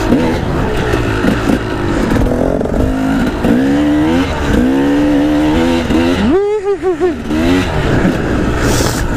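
Two-stroke dirt bike engine under riding load, its pitch rising and falling with the throttle and gear changes. About six seconds in it revs sharply up, then blips up and down several times in quick succession.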